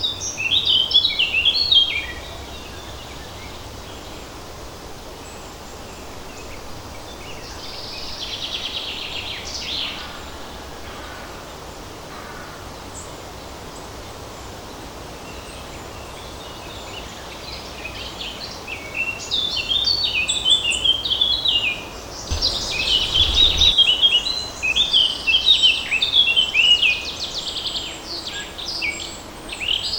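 Songbirds singing in a forest: a few quick phrases at the start, a buzzy trill about a third of the way in, then busy, near-continuous song over the last third. Underneath runs a steady faint rustle of light breeze, with a brief low rumble about three-quarters of the way through.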